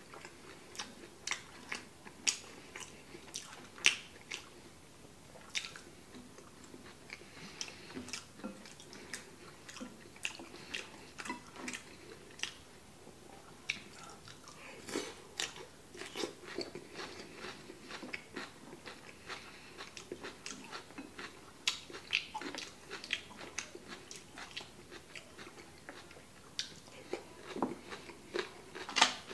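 A man chewing and biting food close to the microphone, with many sharp, irregular mouth clicks and crunches throughout.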